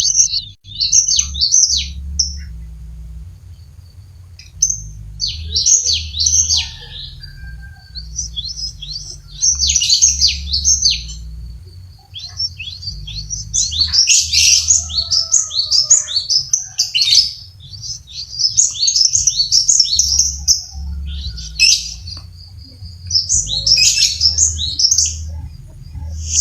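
Cinereous tit (gelatik batu) singing vigorously: bouts of rapid, high chirping notes with short pauses between them, the longest bout running through the middle, over a steady low hum.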